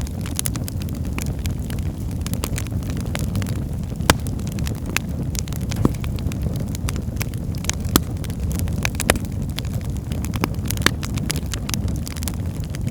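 Wood fire burning in a fireplace: a steady low rumble of flames with frequent sharp crackles and pops, a few louder snaps scattered through.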